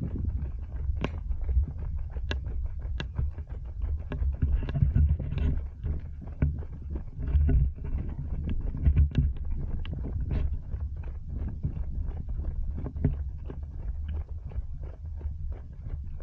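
Running footsteps, a steady beat of about three steps a second, over a low wind rumble on a body-worn action camera.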